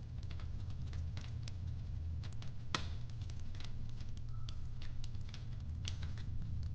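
Fireplace crackling: irregular sharp pops and snaps of burning wood over a steady low rumble, with one louder pop about three seconds in.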